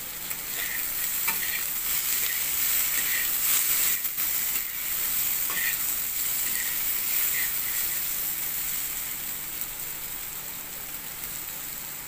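Stuffed okra sizzling in oil in a pan on a medium-to-low flame while a metal spatula stirs and turns it, scraping the pan in short strokes. The stirring is louder through the middle, then eases to a steady sizzle near the end.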